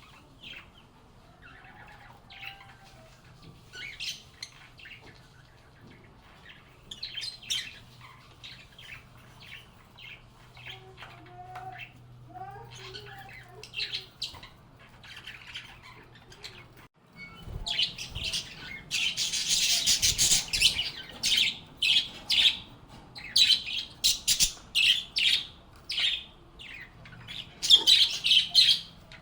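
Lovebirds chirping and squawking: scattered short high chirps at first, then a louder, denser run of rapid shrill chatter for the last dozen seconds.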